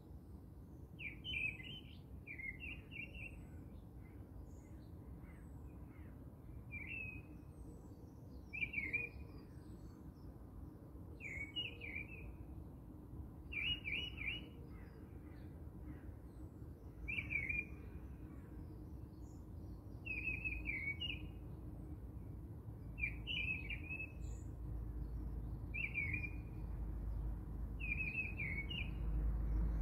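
A small bird chirping: short, quick calls repeated about every two seconds, over a low steady rumble that grows louder near the end.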